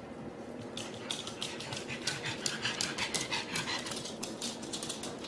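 Dog panting in quick short breaths, about four or five a second, starting about a second in.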